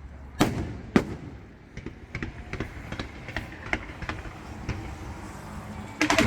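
Fireworks display going off: two loud bangs near the start, then a run of smaller crackling pops, and a quick cluster of bangs near the end.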